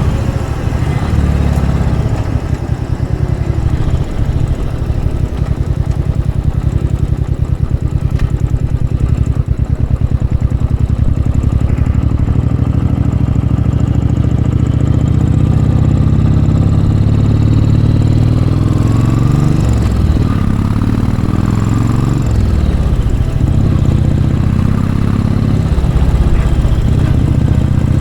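Royal Enfield Bullet 500 single-cylinder engine pulling under load up a steep hill through a baffled Mass Moto Bottiglia exhaust, with an even low beat. The engine speed shifts about two-thirds of the way through.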